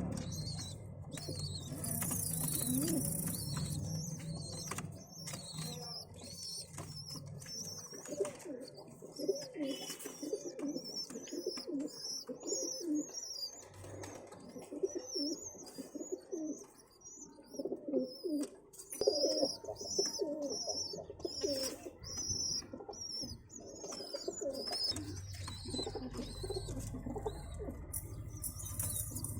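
Pigeons cooing in low pulsing calls, mixed with rapid high-pitched squeaking chirps of the kind pigeon squabs make while begging and being fed by their parents.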